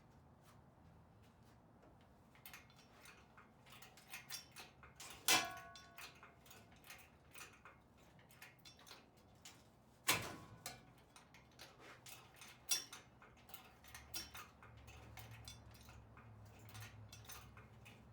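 Irregular metal clicks and clinks from work on a truck engine being pulled, with two louder metal clanks about five and ten seconds in, the first ringing briefly.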